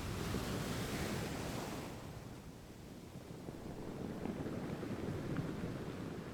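Soft rushing ambient noise with no tones, like surf. It fades about two seconds in and swells again a few seconds later.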